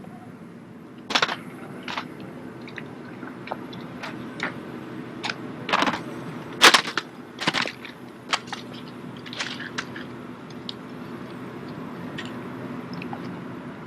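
Drill rifles being slapped, caught and knocked in a rifle drill routine: a dozen or so sharp cracks and knocks at irregular intervals, with the loudest cluster around the middle.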